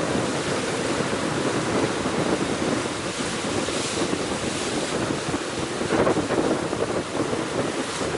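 Strong gale-force wind buffeting the microphone over the continuous wash of sea waves, with gusts surging, one strongest about six seconds in.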